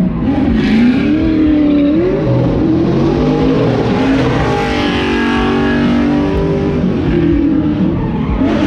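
Nearly 1,000-horsepower Nissan 370Z drift car's engine revving, its pitch rising and falling again and again, with tyres skidding as it drifts.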